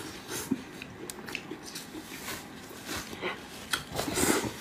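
Close-miked wet chewing and mouth smacking as stringy, sauce-covered meat is bitten and pulled from the mouth, making a run of short irregular wet clicks with a louder burst about four seconds in.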